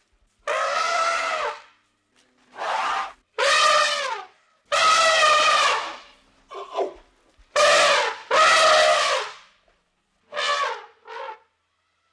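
An animal calling loudly and repeatedly: about nine pitched calls, each up to about a second long, with short pauses between them.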